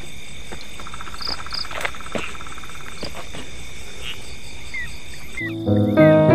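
Night chorus of crickets and other insects, a steady high-pitched trilling with a short pulsed trill about a second in. Music with piano-like notes comes in near the end.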